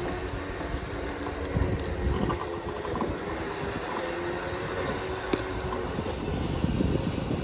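A motor vehicle running and moving, with a steady low rumble, wind noise and scattered knocks and rattles.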